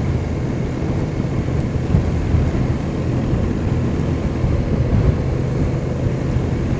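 BMW R1200 motorcycle's boxer-twin engine running steadily while riding, heard from on the bike with road noise.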